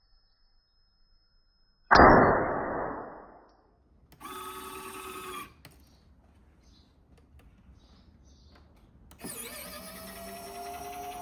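A firecracker fired from a WPL E1 RC truck's homemade cannon goes off with one sharp bang about two seconds in, dying away over a second or so. A small electric motor then whirs briefly, and another whir starts near the end and keeps going.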